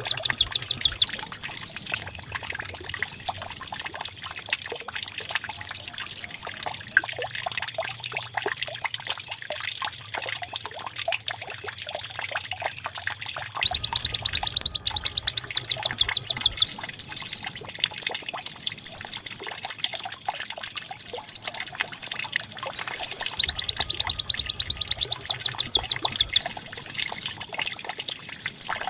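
White-eye (pleci) song played as a lure track: loud, fast trills and warbled rising-and-falling phrases, high-pitched and repeated over and over in the same pattern. From about 7 to 14 seconds in, it drops to a stretch of softer scattered chirps.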